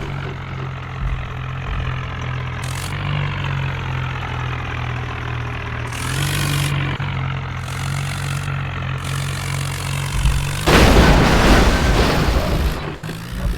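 Swaraj tractor's diesel engine running steadily at low revs for about ten seconds. It is then suddenly drowned out by a loud, noisy rushing sound that lasts to the end.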